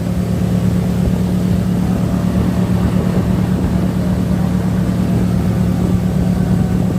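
Boat engine running at a steady low drone while under way on the river.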